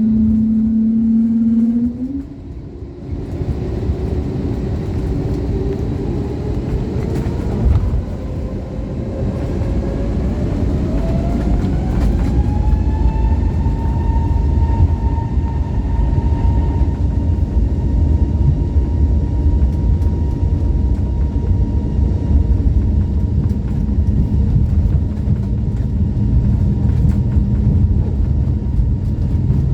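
Airbus A321neo jet engines spooling up to takeoff power, heard from inside the cabin: a whine that rises for about ten seconds and then holds steady, over a low rumble that builds as the takeoff roll gets under way.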